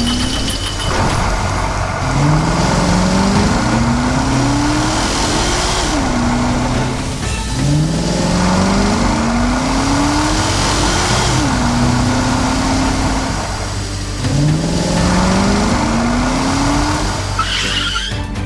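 Vehicle engine sound effect revving up again and again: each time the pitch rises for about three seconds, then drops and climbs once more, over a steady low drone.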